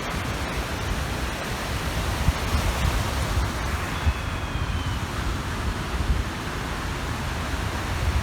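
Waves washing onto the Kapchagay reservoir shore as a steady wash, with wind gusting on the microphone as an uneven low rumble. A faint, brief high call sounds about four seconds in.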